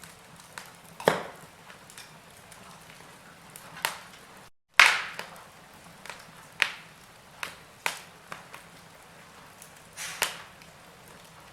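Wood fire in a fireplace crackling: a faint steady hiss with sharp pops every second or two. The sound cuts out for a split second just before the loudest pop, a little before the middle.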